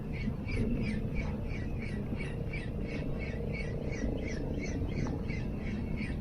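A bird calling over and over, short downward-sweeping notes about three a second, over a steady low rumble.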